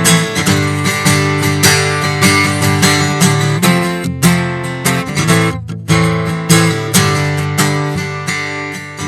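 Acoustic guitar strumming chords, with a short break about five and a half seconds in.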